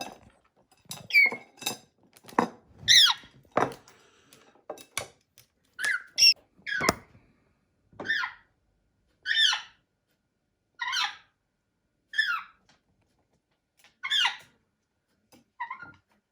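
African grey parrot making a string of short squeaky chirps and whistles, one every second or so, each bending up and down in pitch. Several sharp clicks and knocks come in among the calls during the first few seconds.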